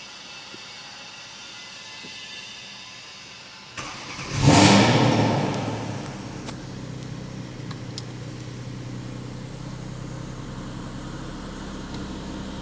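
Porsche engine cranking briefly and catching just under four seconds in, flaring up in revs, then settling within about two seconds to a steady idle. Before the start there is a steady hiss.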